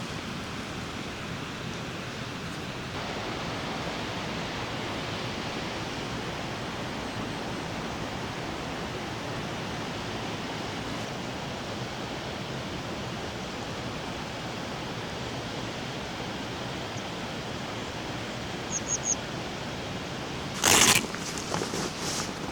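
Steady hiss of heavy rain and rushing water. Near the end come three quick high ticks, then a single loud sharp knock followed by a few softer clicks.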